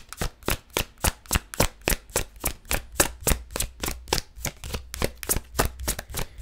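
Tarot cards being shuffled by hand, a quick steady run of crisp card slaps about six a second.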